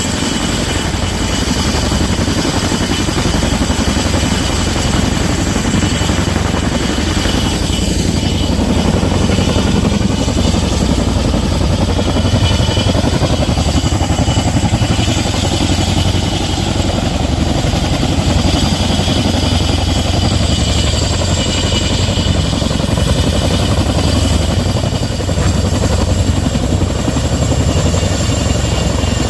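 Helicopter running close by during a sling-load lift: rapid, heavy rotor beat with a steady turbine whine, loud and unbroken.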